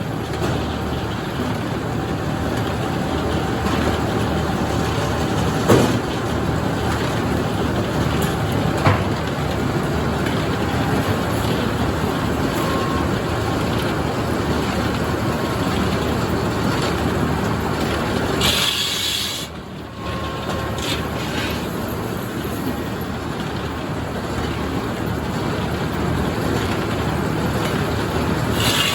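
Sawmill running steadily while sawing 5/4 red oak into boards, its saw with inserted, hand-filed teeth. The level drops briefly a little past two-thirds through, with a short high-pitched sound just before it and again near the end.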